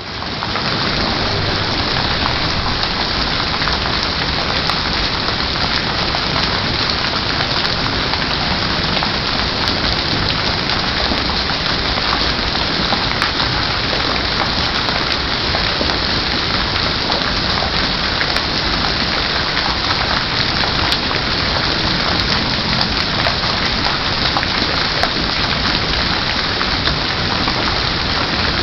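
Heavy tropical rain pouring down steadily, a loud, dense, even hiss of falling drops.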